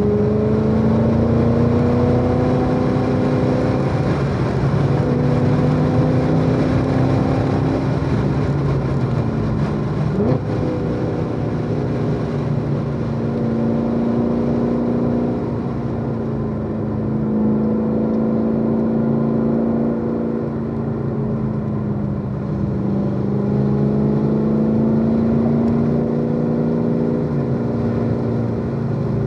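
Supercharged V8 of a C7 Corvette Z06 running hard on track, heard from inside the car, its note rising and falling slowly through the corners, with a brief drop in pitch and a short sharp sound about ten seconds in.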